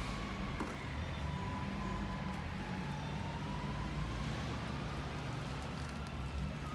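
A motor running steadily, with a constant low hum and a faint whine that slowly rises and falls in pitch.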